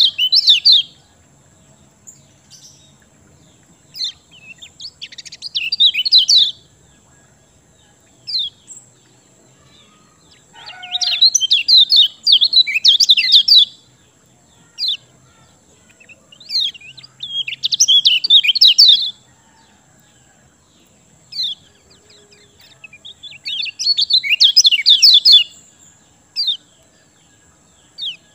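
Kecial kuning, a small white-eye songbird, singing: bursts of rapid high chirping one to two seconds long, about every six seconds, with single short calls between them. A persistent song used to prompt quiet caged birds into singing.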